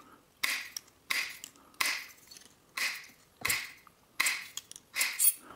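Hand snips clipping the corners off a flattened copper pipe disc: a run of sharp snaps, about one every 0.7 seconds.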